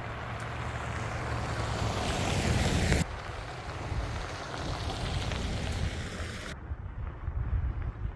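Strong wind gusting and buffeting the microphone, a dense rushing hiss over a low rumble. It builds until about three seconds in, then cuts off abruptly into a slightly quieter rush. The high hiss drops away suddenly near the end, leaving mostly the low rumble.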